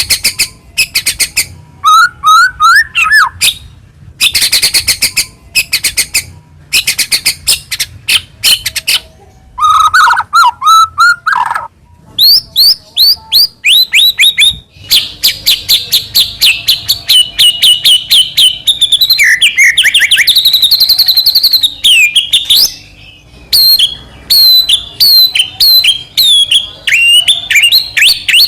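White-rumped shama (murai batu) in full, continuous song: loud, varied phrases of rapid stuttering note runs, slurred whistles and fast trills, with a long run of quick repeated notes partway through.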